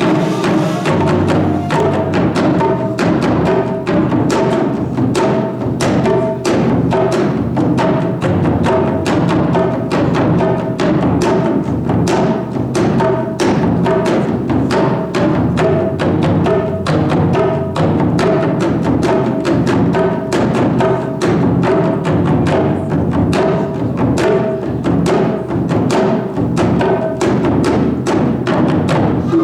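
Japanese taiko drums struck in a fast, even rhythm, with a melodic line held over the drumming.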